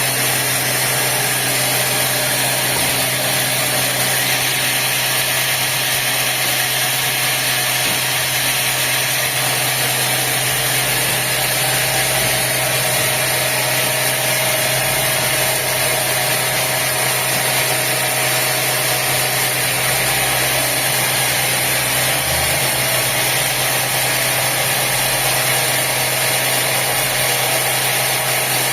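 Sawmill machinery running steadily: a continuous engine drone with a constant low hum and an even hiss.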